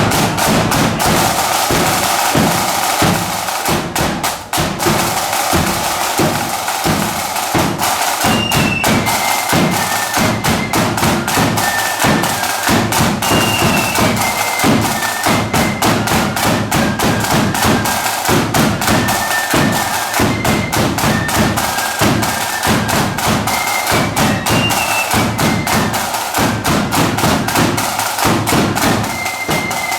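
Flute band playing a march: rapid snare-drum strokes and bass-drum beats under a high flute melody that steps up and down.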